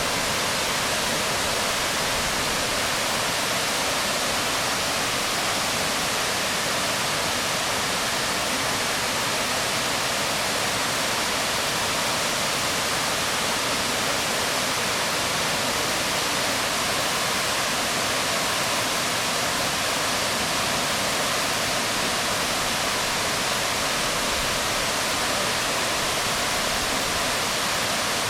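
Waterfall splashing onto rocks: a steady, even rush of falling water.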